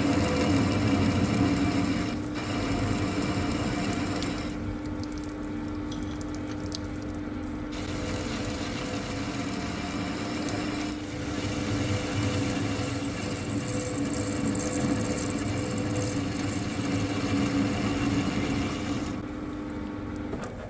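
Metal lathe turning the spigot on a steel hydraulic cylinder rod: a steady machine hum under the hiss of the tool cutting steel, the hiss dropping away for a few seconds twice.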